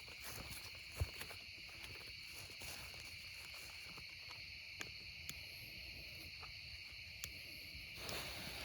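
Night insects trilling in a steady high chorus, with a few faint ticks and a low rustling that starts near the end.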